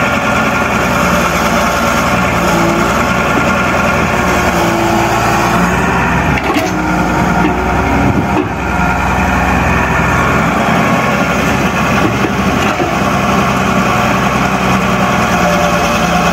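A steady engine running at idle, even and unbroken throughout.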